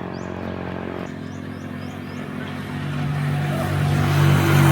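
Motorcycle engine running steadily, growing louder over the last two seconds as it comes closer.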